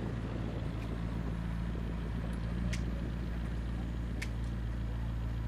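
McLaren MP4-12C's twin-turbo V8 idling steadily, with two short sharp clicks in the second half.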